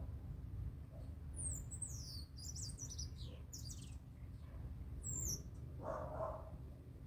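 Small birds calling in a quick run of high, falling chirps, with another burst about five seconds in. Near the end comes a single short, lower, bark-like call.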